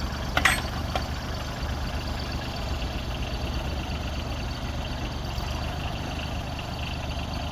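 A Branson 2500 compact tractor's diesel engine runs steadily at low engine speed while its backhoe digs. A sharp clack comes about half a second in, and a lighter knock follows about a second in.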